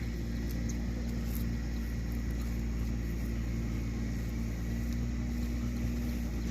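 An engine running steadily at an even speed, a low constant hum.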